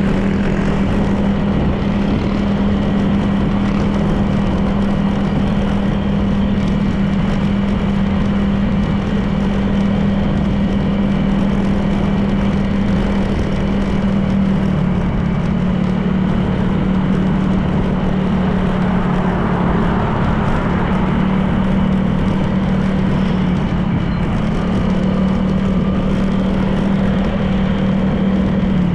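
Honda PCX 160 scooter's single-cylinder engine running at a steady cruising pace, a constant drone whose pitch shifts slightly about halfway, over a steady rush of wind and road noise.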